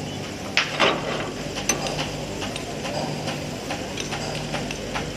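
Hand tools on engine parts: irregular metallic clicks and knocks, several a second, over a steady low hum.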